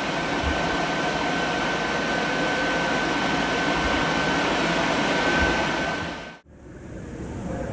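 A steady blowing machine noise with a thin high whine running through it, which cuts off abruptly about six and a half seconds in; a fainter hiss follows.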